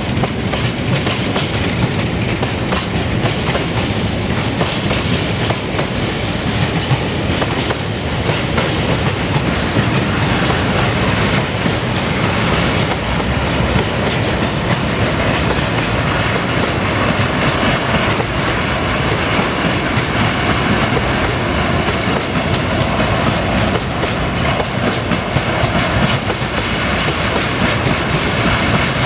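Train rolling past close by: a steady, unbroken run of wheel noise on the track, with many small clicks throughout.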